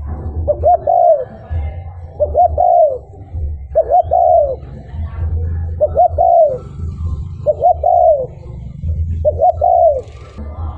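Spotted dove cooing: six phrases, about one every two seconds. Each phrase is two quick short notes and then a longer note that bends down at its end, over a steady low rumble.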